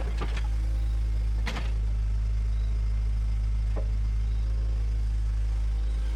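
Bulldozer's diesel engine running steadily with a deep, even drone, with a few sharp metallic clanks, the loudest about one and a half seconds in.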